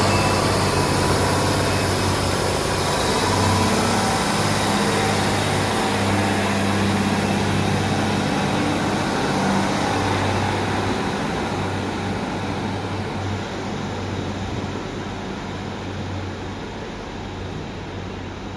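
Train running with a steady low drone under a rushing hiss, slowly growing quieter toward the end.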